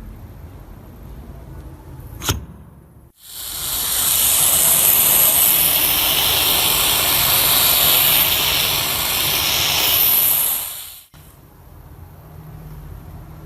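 A sharp click, then pressurised air hissing hard and steadily from a nozzle for about eight seconds, starting and cutting off abruptly.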